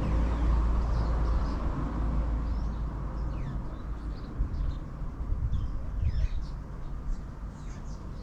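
A low rumble that slowly fades, with birds chirping faintly over it from about three seconds in.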